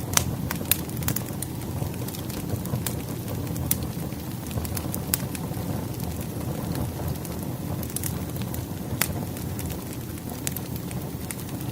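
Firewood logs burning in a fireplace: a steady low rumble of the flames with irregular sharp crackles and pops from the wood, a few louder snaps among them.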